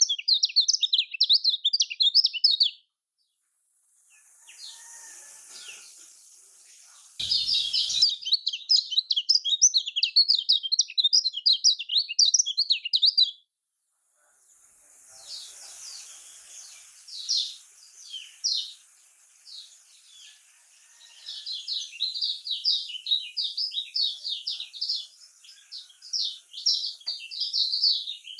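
Kecial kuning white-eye singing a rapid, high, chattering song of fast-repeated notes. It comes in long dense runs broken by two short silences, with scattered single notes in the middle stretch before the dense chatter resumes.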